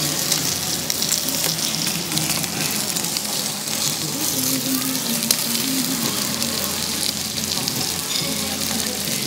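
Food frying in hot oil: a steady sizzling hiss full of small crackles.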